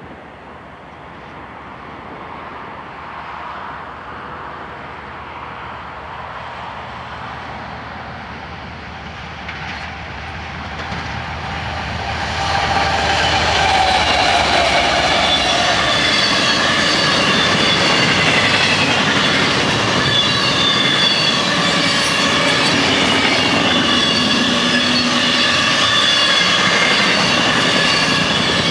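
Union Pacific double-stack container train approaching and passing. The diesel locomotives' rumble grows louder over the first twelve seconds or so and turns loud as the lead units go by. Then the stacked well cars roll past with a dense rumble of wheels on rail and steady high-pitched wheel squeal.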